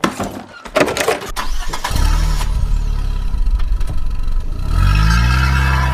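An engine starting: a clatter, then it catches and runs steadily at a low pitch, revving up a little near the end.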